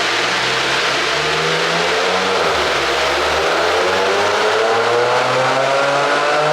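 Mercedes-AMG E53's turbocharged 3.0-litre inline-six, running an aftermarket pop-and-crackle ECU tune, pulling under acceleration: its pitch dips slightly about two seconds in, then climbs steadily.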